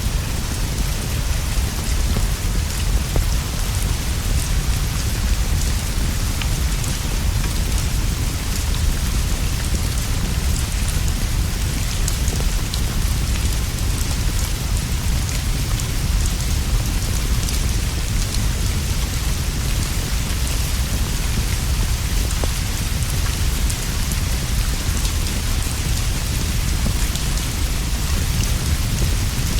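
Steady heavy rainfall, an even hiss of rain on surfaces over a continuous low rumble, with faint scattered ticks of individual drops.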